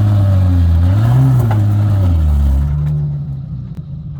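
Four-wheel drive's engine working on a rocky off-road climb, revving up briefly about a second in, then easing off and fading near the end.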